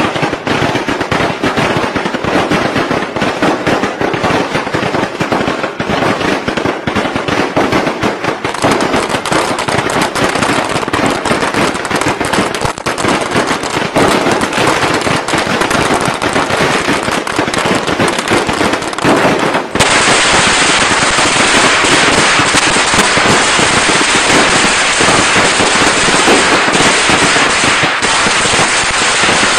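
Strings of firecrackers going off in a dense, rapid, continuous crackle of bangs. About twenty seconds in it cuts to a louder, denser barrage.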